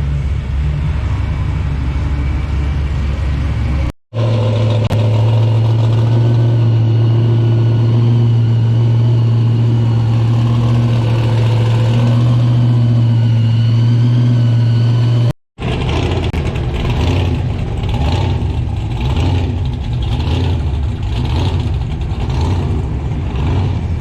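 Car engines running, in three stretches joined by abrupt cuts: a steady deep engine note through the middle stretch, and an engine sound pulsing unevenly in the last.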